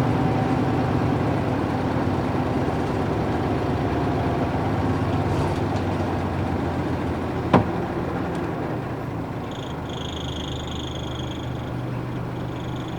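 Bus diesel engine (Nissan Diesel UA440 with PF6 engine) running steadily and slowly getting quieter. There is one sharp click about halfway through. Near the end a high electronic beeping tone sounds in two stretches.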